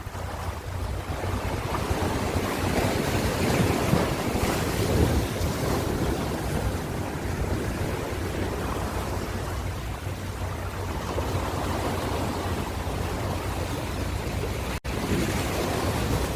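Ocean waves washing on a shore, a continuous surf noise that swells and eases, with a steady low wind rumble on the microphone. The sound drops out for an instant near the end.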